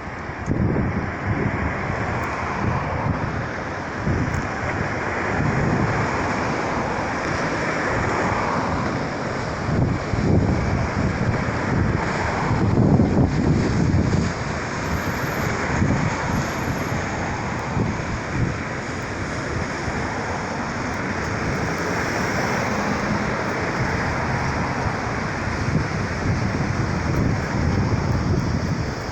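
Gusting wind buffeting the microphone, over a steady rushing noise.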